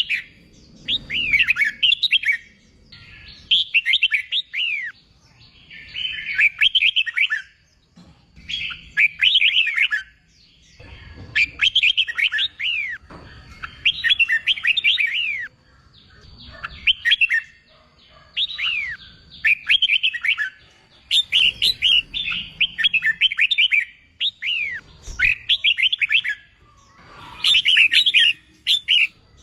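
Red-whiskered bulbul singing: short phrases of quick, sweeping whistled notes, repeated with brief pauses every two seconds or so.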